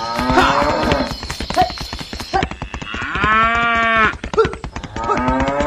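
A cow mooing, one long call of about a second near the middle with shorter calls before and after, over a fast, even clatter.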